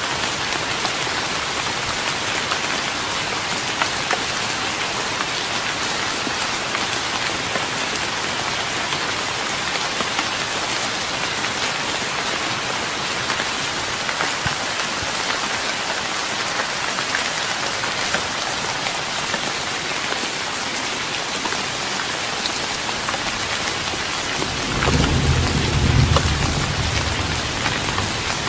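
Steady rain pattering on a wooden deck, with individual drops ticking. Near the end a low rumble of thunder swells for about three seconds.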